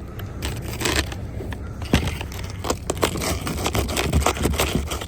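A broom brushing and scraping heavy snow off a car in irregular, crunching strokes.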